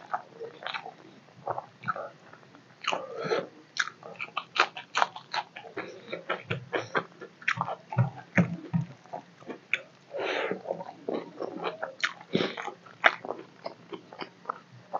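Close-up chewing of a mouthful of rice and fish curry, with many quick wet mouth clicks and smacks. Now and then there is a soft squish as a hand mixes rice and curry on a steel plate.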